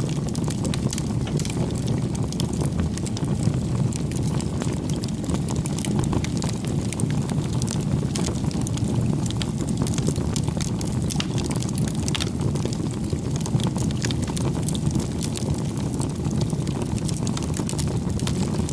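Wood fire burning: a steady low rumble with frequent small crackles and pops.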